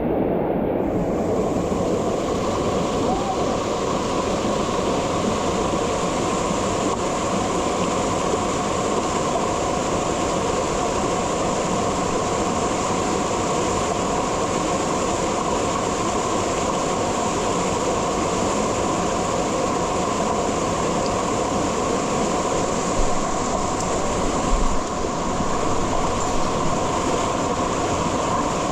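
Steady roar of a mountain stream's waterfall in heavy flow close by, with a couple of brief bumps near the end.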